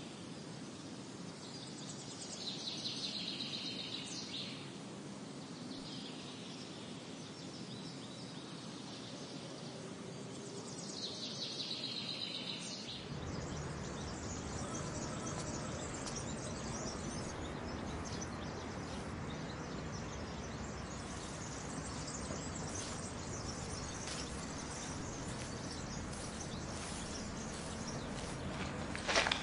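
Outdoor ambience with birds singing: two short song phrases in the first half. About halfway the background turns fuller and louder, with light rustling ticks, and a short sharp sound comes at the very end.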